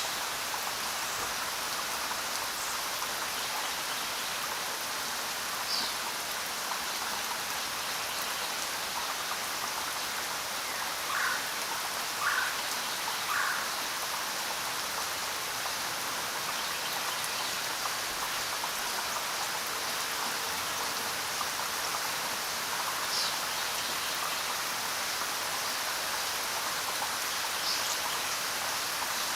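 Steady rain falling, an even patter of drops, with a few short louder sounds standing out, three in quick succession around the middle.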